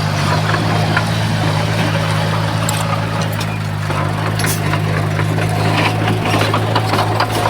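Bulldozer's diesel engine running steadily under load, with scattered metallic clanks and rattles from the machine working the soil.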